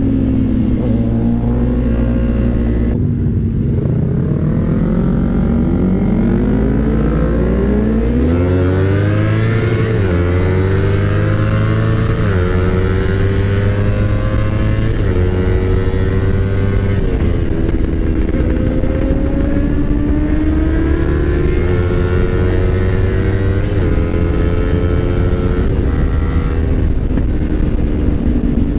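Yamaha R25's 250 cc parallel-twin engine accelerating through the gears: its pitch climbs for several seconds, drops at each of three upshifts, then holds steady at a cruise.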